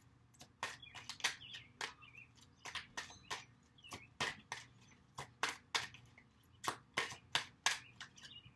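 Birds chirping: short, sharp chirps repeated irregularly about two or three times a second.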